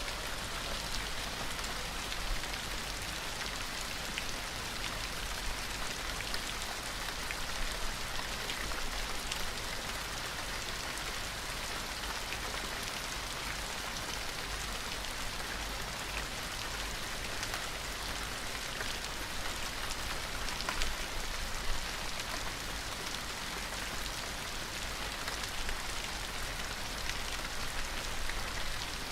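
Steady rain falling, a dense patter of drops with scattered sharper drop ticks.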